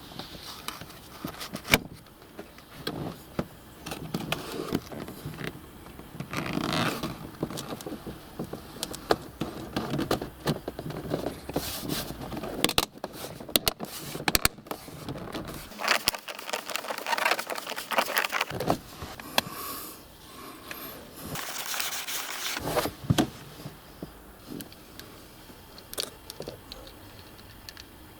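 Irregular handling noises: scraping, rustling and scattered clicks of hands and tools working on the car's interior trim and headliner.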